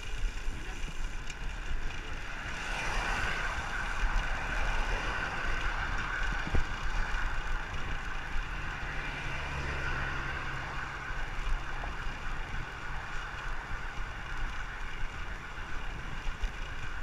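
Wind rushing over the microphone and road noise while riding a bicycle at speed. A low steady hum joins in for a few seconds in the middle, and there is a single click about six seconds in.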